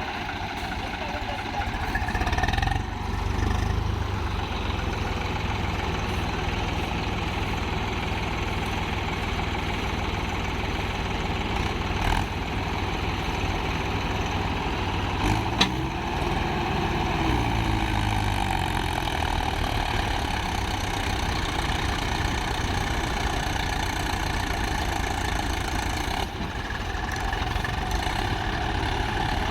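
Tractor's diesel engine running steadily, its speed briefly changing about halfway through, with a sharp click at that point.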